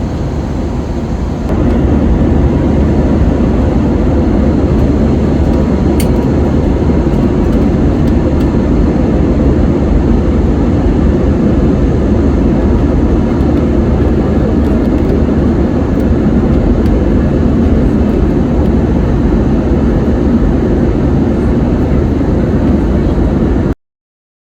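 Airbus A321 engines and airflow heard from inside the passenger cabin during takeoff: a steady, loud rushing drone that steps up about a second and a half in, then cuts off suddenly near the end.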